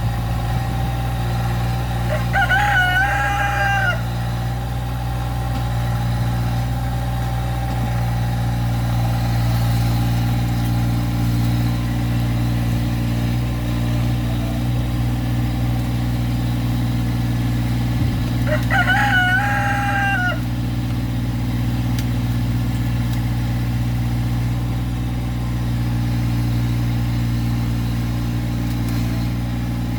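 Massey Ferguson GC1710 subcompact tractor's three-cylinder diesel engine running steadily, with a rooster crowing twice, about two seconds in and again about eighteen seconds in.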